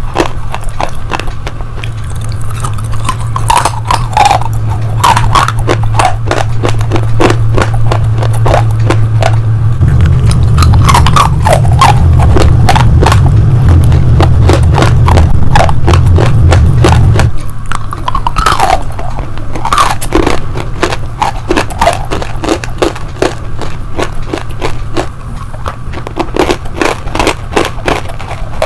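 Close-miked crunching and chewing of hard slate and baked-clay pieces in the mouth, a dense run of rapid crunches and scrapes throughout. A steady low hum runs underneath and grows louder for several seconds in the middle.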